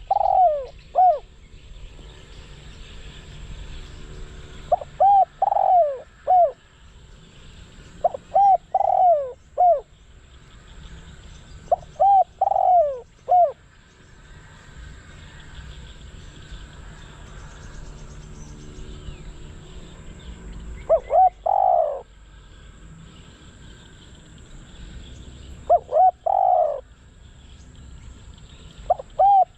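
Spotted dove, a caged decoy bird, cooing. It gives about seven phrases of three or four falling coos each, every few seconds, with a longer pause in the middle.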